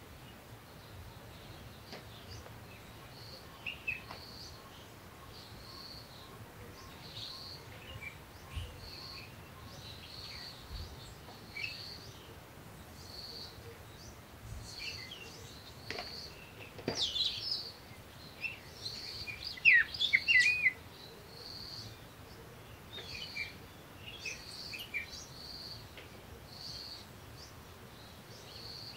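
Birds chirping: a steady series of short, high chirps about once a second, with scattered twittering calls that grow louder in a brief burst a little past the middle.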